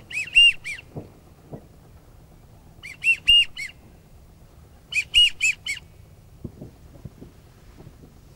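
Bird calls: three short runs of four or five high, rising-and-falling whistled notes, near the start, about three seconds in and about five seconds in. Soft knocks and rustles come between the runs.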